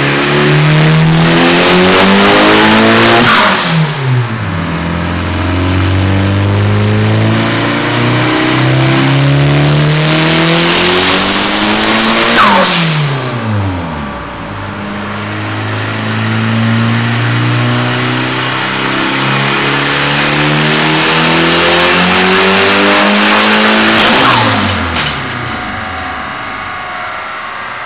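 Car engine on a chassis dyno running at wide-open throttle. The revs climb and then fall away sharply, three times in a row.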